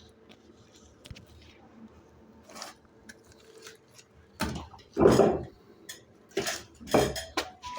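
Bricklaying work on a masonry stove: quiet at first, then from about halfway a run of short scrapes and knocks of a trowel, mortar and bricks, the loudest a little past the middle.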